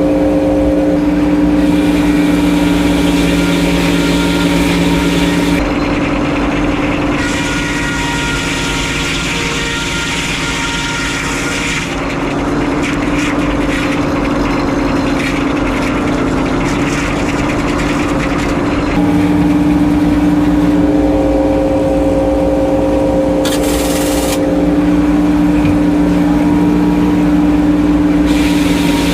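Sawmill engine running steadily throughout, its tone and load shifting several times as the mill works.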